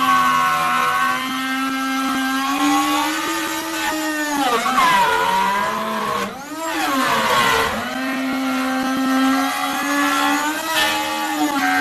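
Electric woodworking power tool motor running at a steady whine, its pitch sagging and recovering about three times as it is loaded by cutting into the wood.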